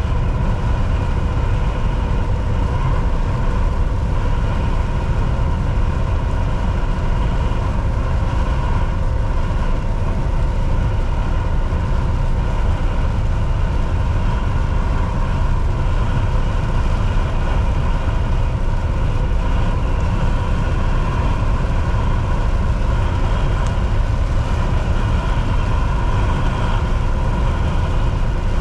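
Volvo VNL 760 semi truck driving steadily at highway speed: a constant low engine drone with road noise and a thin, steady whine.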